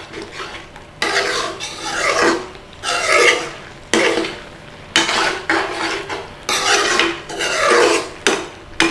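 A utensil scraping around the bottom of a pan as a simmering tomato curry is stirred, in repeated scraping strokes about one a second. The scraping keeps the thick sauce from catching on the pan.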